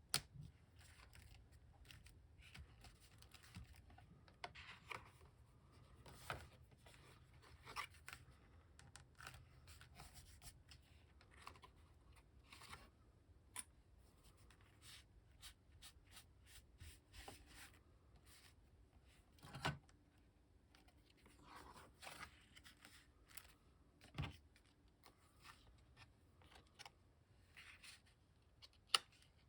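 Paper and card being handled on a craft table: soft, irregular rustling and sliding, with a few sharper taps and clicks.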